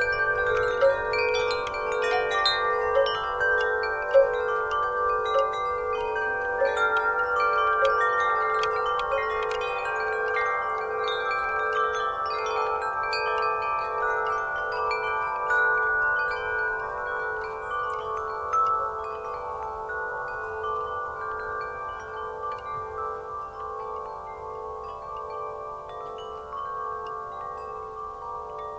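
Wind chimes stirred by the breeze, ringing in many overlapping, long-sustaining tones struck at irregular moments. The strikes grow sparser and the ringing fades a little in the later part.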